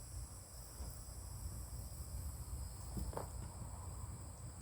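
Steady, high-pitched chirring of an insect chorus over a low rumble, with one faint brief sound about three seconds in.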